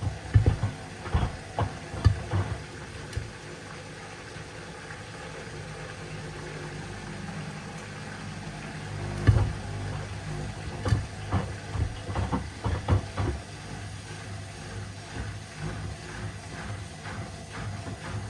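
Washing machine running with sneakers inside, a steady motor hum under irregular thuds of the shoes knocking in the drum, in clusters near the start and again around the middle.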